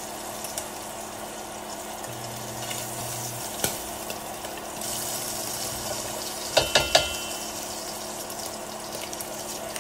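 Food frying in a pan with a steady sizzle. About two-thirds of the way in, a quick run of four sharp metallic clinks.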